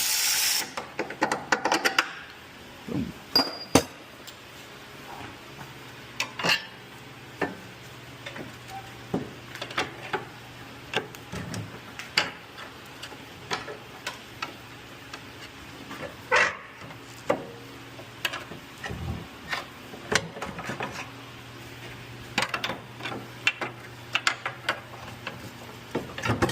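Hand tools and metal suspension parts clinking and knocking irregularly during lower control arm work on a car. Within the first second a loud steady rushing noise cuts off.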